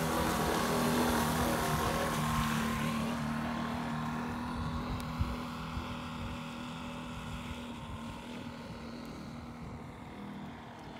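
Small four-stroke glow model engine (Enya) running steadily on a radio-controlled model boat, a constant buzzing note that grows gradually fainter after about three seconds as the boat draws away.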